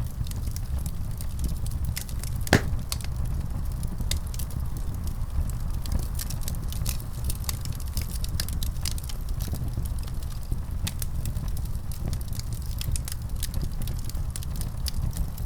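Wood fire in a fireplace crackling, with scattered sharp pops over a steady low rumble; one louder pop about two and a half seconds in.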